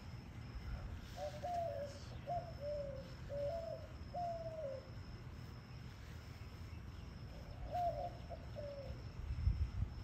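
Bird cooing in a low, dove-like voice: a run of five short coos about a second in, then three more near the end. A low rumble runs underneath, with a dull thump shortly before the end.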